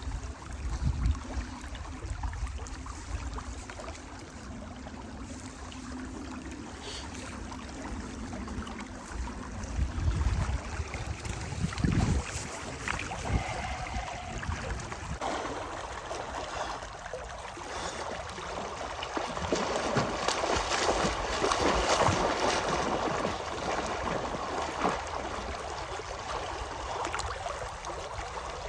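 Water trickling and sloshing as a person wades into cold open water, with occasional low thumps. The water sound swells and grows fuller about halfway through.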